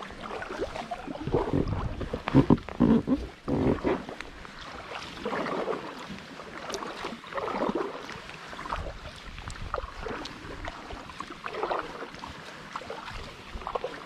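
Kayak paddle blades dipping and splashing in river water, a stroke about every two seconds. The first few seconds hold heavier splashes and low thumps.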